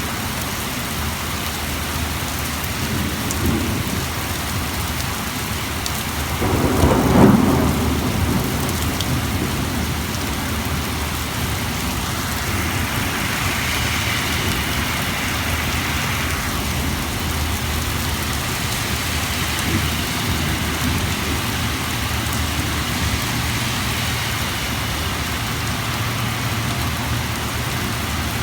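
Heavy rain pouring steadily, with a short clap of thunder about seven seconds in, the loudest moment. Around the middle a higher hiss swells and fades over the rain.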